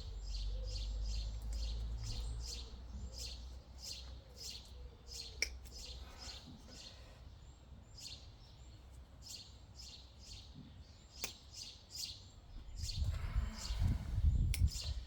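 A small bird chirping over and over, short high chirps at about two or three a second. Near the end there are a few louder knocks and handling noise.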